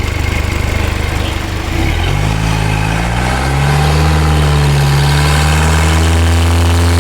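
Isuzu MU-X diesel engine idling, then revved up about two seconds in and held steady at raised revs, as a test for a turbo noise; the loud turbo whistle being chased does not show up.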